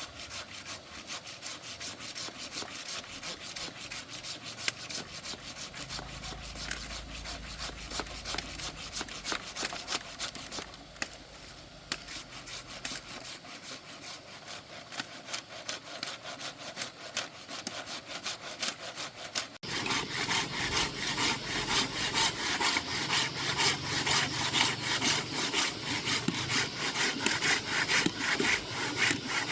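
Hand saw cutting through a log, a long run of even rasping strokes at about three a second. The strokes ease briefly a little before halfway, then jump abruptly louder and sharper about two-thirds through.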